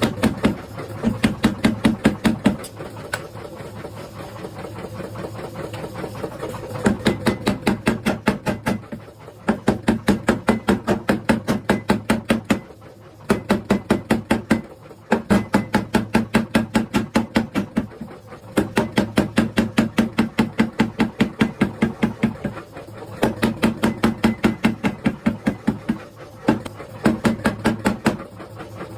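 Mechanical power hammer striking hot steel in rapid bursts of about six or seven blows a second, each burst lasting one to three seconds with short pauses between, over the steady hum of the running machine.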